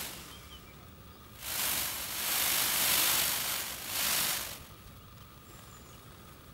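Male Indian peafowl in full display, shaking its fanned train: a dry rustling rattle of feathers lasting about three seconds, starting just over a second in and briefly easing near the end.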